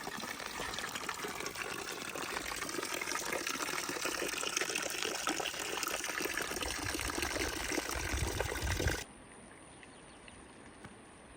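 Running water trickling and splashing steadily, then cutting off suddenly about nine seconds in, leaving only a faint background.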